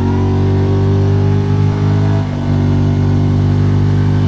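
Kawasaki Teryx 4 side-by-side's V-twin engine running steadily at cruising speed, a loud even drone that dips briefly about two seconds in.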